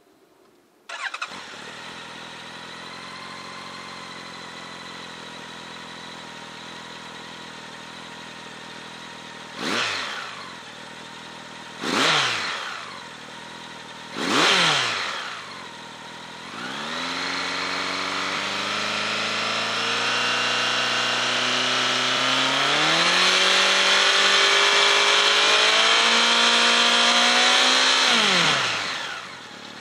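Honda CB1100 air-cooled inline-four starting about a second in and settling into a steady idle. Three quick throttle blips follow, then the revs climb and are held high for several seconds before dropping back to idle near the end.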